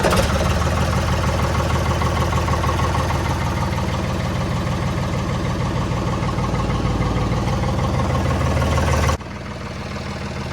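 Ford backhoe's diesel engine running at a steady idle just after a cold start. About nine seconds in the sound drops suddenly and the engine goes on more quietly.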